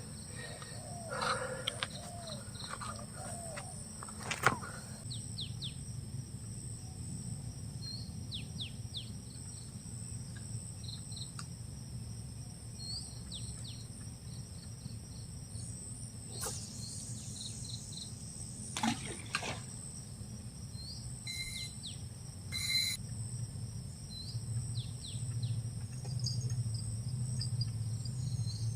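Outdoor ambience of insects making a steady high buzz, with scattered short bird chirps and a few sharp clicks.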